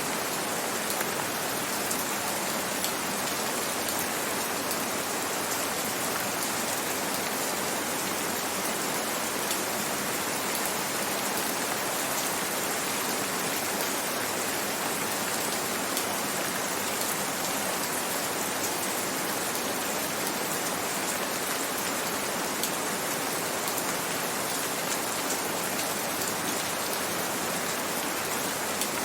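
Steady rain, a constant even hiss of falling rain with fine scattered drop ticks.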